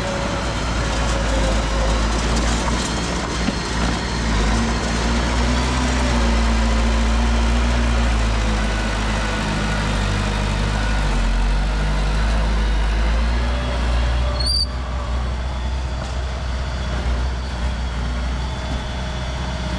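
Diesel engine of heavy construction machinery running steadily, with one brief sharp click and a short high squeak about two-thirds of the way through.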